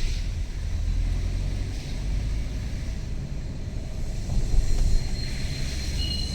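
Steady low rumble of a vehicle driving on the road in traffic, with a faint thin high whine coming in near the end.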